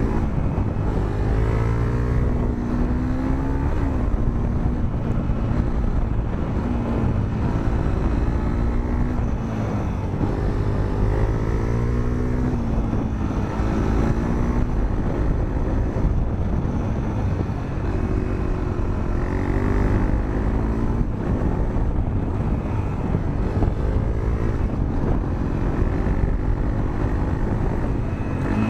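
Honda CRF250L's single-cylinder four-stroke engine, breathing through a Moriwaki aftermarket muffler and heard onboard, revving up and dropping back again and again as the bike accelerates and eases off. Steady wind and road noise run underneath.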